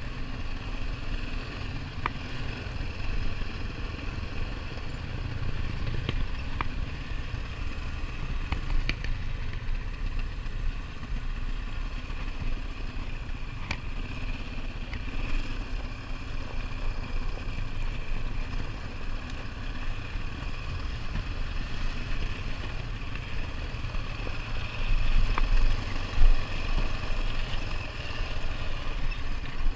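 ATV engine running steadily on a trail ride, with scattered sharp clicks and rattles and a louder rough jolt about 25 seconds in.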